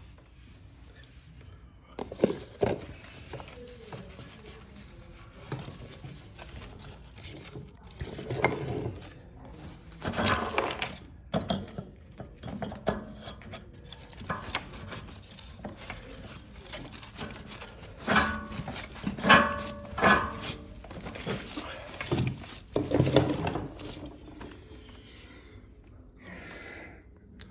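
Irregular knocks, light clatter and rubbing of hard objects being handled, with a busier cluster about two-thirds of the way through.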